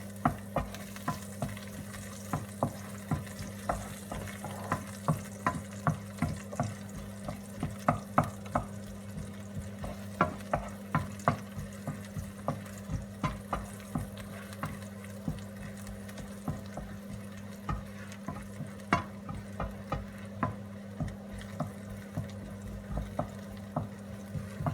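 Chopped garlic sizzling as it fries in hot oil in a pan, stirred with a utensil that clicks and scrapes against the pan about once or twice a second, over a steady low hum.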